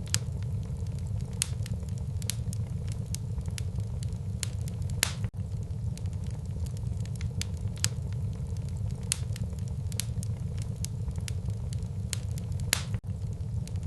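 Wood fire in a fireplace crackling, with frequent sharp pops over a steady low rumble. Two louder pops come about five seconds in and near the end.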